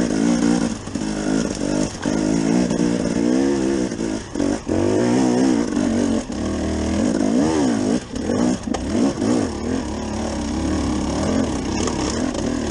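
KTM 250 EXC two-stroke single-cylinder enduro engine being ridden hard, its pitch rising and falling constantly with the throttle, with short throttle cuts every few seconds.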